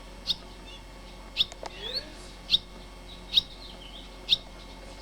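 A small songbird chirping: five short, sharp chirps about a second apart, with a brief rising call near two seconds in.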